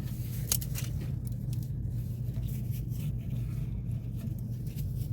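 Irregular scraping and clicking of a long screwdriver being jabbed into the holes of a drain pipe clogged with sludge, over a steady low hum.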